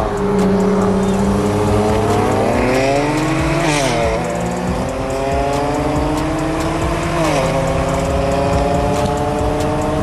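A performance car's engine pulling hard under full throttle, its pitch climbing steadily and dropping sharply at an upshift twice, about four and seven seconds in.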